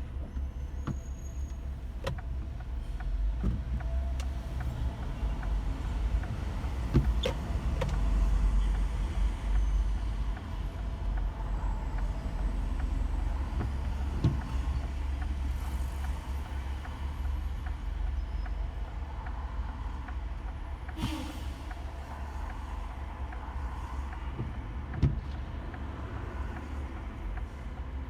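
Car driving slowly in light rain: a steady low rumble from the road and engine, with a few scattered ticks and knocks.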